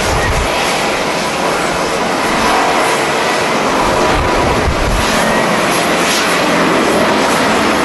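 Jet airliner engines running as a steady, loud rush of noise. Strong wind buffets the microphone in uneven low gusts.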